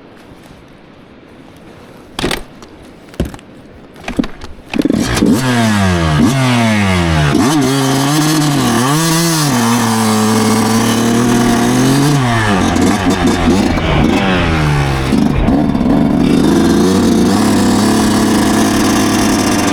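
2009 Yamaha YZ125's 125cc two-stroke single being kick-started: a few sharp thumps, then the engine catches about five seconds in. It is blipped a few times, its pitch falling and rising, then settles into steady running.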